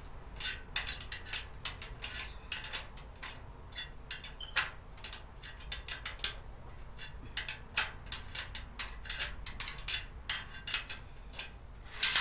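Small metal wrench working a bolt on a metal storage cart, with irregular light metallic clicks and clinks, several a second, as the tool and parts knock together. The bolt is not going on.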